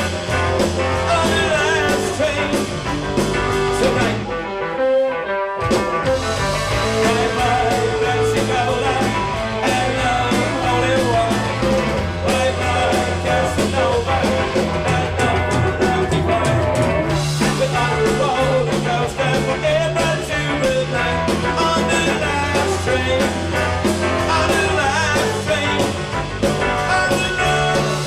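Rock-and-roll band music, a stretch with no words to make out and a steady bass line under melodic lines. About four seconds in, the bass and low end drop out for a second or so before the full band comes back in.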